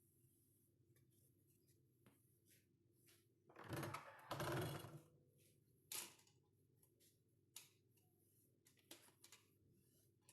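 Quiet household handling sounds: scattered light clicks, a louder rustling scrape lasting about a second and a half near the middle, then a sharp click.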